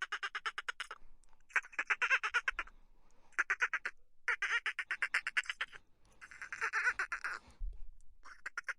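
An animal calling in repeated bouts of fast, evenly pulsed nasal notes, about ten pulses a second, each bout lasting around a second with short pauses between.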